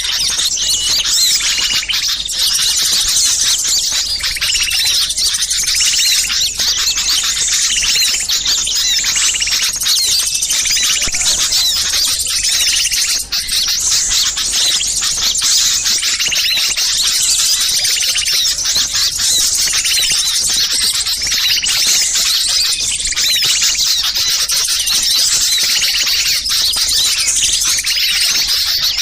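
Dense, unbroken chorus of many small songbirds calling together in rapid, agitated chatter and chirps, a mixed small-bird lure recording (suara pikat burcil ribut).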